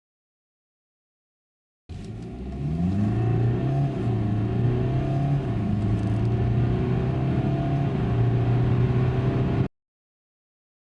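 BMW 3 Series (F30) diesel engine under hard acceleration, its note climbing with the revs. It starts abruptly about two seconds in and cuts off suddenly near the end.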